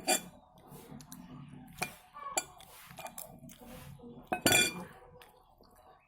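Cutlery clinking and scraping against a plate while eating a meal of rice and balado eggs, with a few sharp clinks, the loudest about four and a half seconds in.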